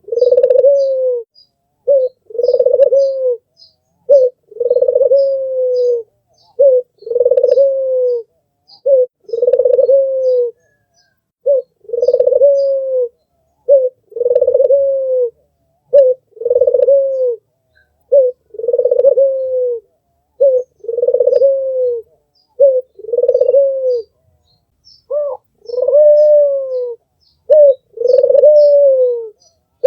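Albino Barbary dove (white 'puter' turtle dove) cooing over and over: a short note followed by a longer, bending coo, repeated about every two seconds. Faint high chirps of small birds sound in the background.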